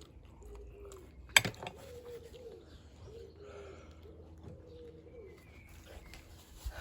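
A pigeon cooing in a run of short, low, repeated phrases, with one sharp click about a second and a half in.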